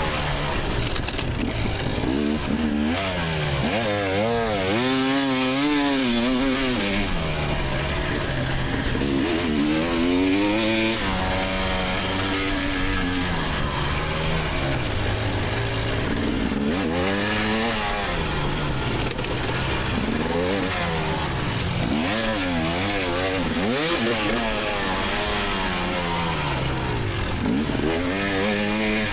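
GasGas EX300 two-stroke dirt bike engine revving, its pitch climbing and dropping back over and over as the throttle is opened and closed.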